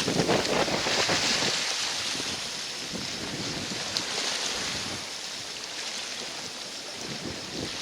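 Wind buffeting the microphone over waves splashing on the shore of a rough, wind-whipped lake, gusting strongest in the first second or so.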